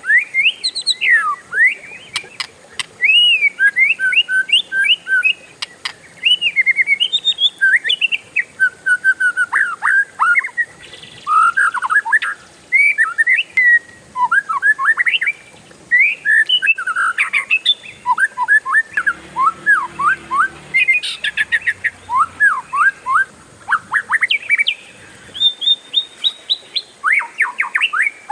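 Oriental magpie-robin (kacer) singing a long, near-unbroken song of varied slurred whistles and quick runs of notes, with a burst of rapid notes near the end.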